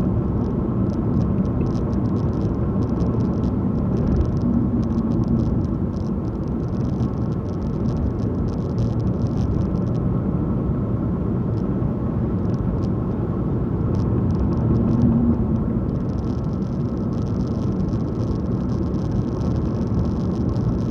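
Car driving along a country road: steady engine and tyre rumble, with patches of faint crackling hiss from the road surface.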